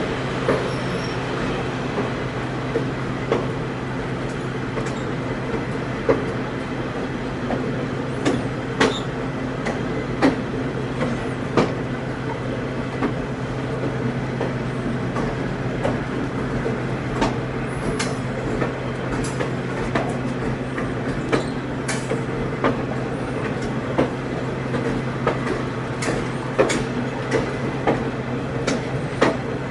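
Inside a moving ex-Long Island commuter passenger coach: a steady rumble and hum of the running train, with sharp clicks and knocks from the wheels and car body coming at irregular moments, more often near the end.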